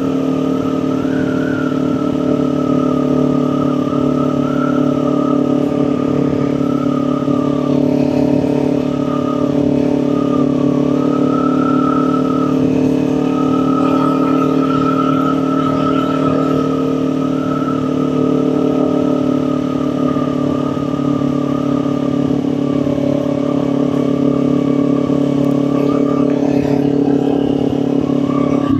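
Kawasaki Ninja 400's parallel-twin engine running at a steady cruising pace, its pitch holding nearly level with small rises and dips.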